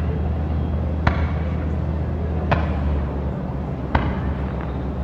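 Fireworks going off: three sharp bangs about a second and a half apart, each with a short echoing tail, over a steady low rumble.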